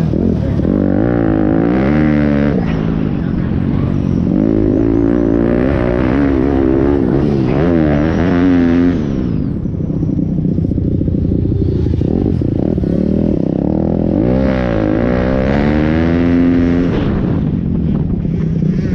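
Pit bike engines revving up and down as they race, the pitch rising and falling again and again, with a lull in the high end about halfway through before the revving picks up once more.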